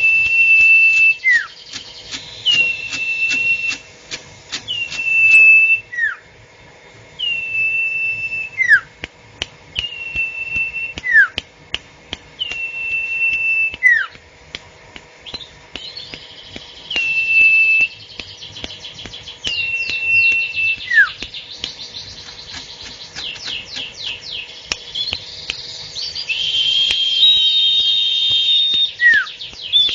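A bird ('burung sirtu') calling over and over, about every two seconds: a short rise into a held whistled note, then a quick falling whistle, with frequent sharp clicks in the background. Near the end the calls crowd together, with extra overlapping notes.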